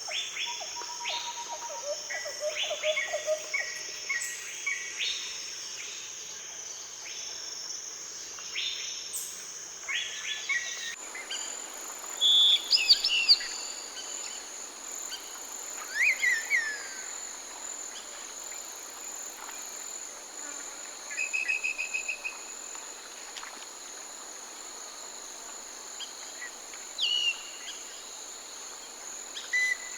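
Several forest birds calling and singing: short whistled notes, falling calls and rapid trills, over a steady high-pitched drone of insects such as crickets. About a third of the way in the background changes abruptly, as from one recording to another, and louder chirps and trills follow.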